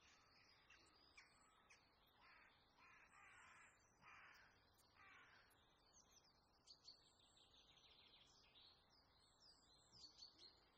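Faint bird calls: about four half-second calls in the first half, then a run of short, high chirps.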